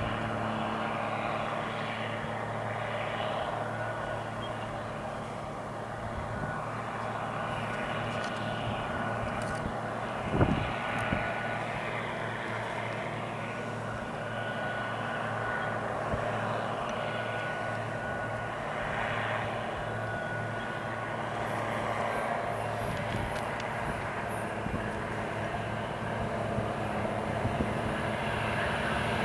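Diesel locomotives of a freight stack train running with a steady low engine drone, growing louder near the end as the train approaches. A single sharp thump comes about ten seconds in.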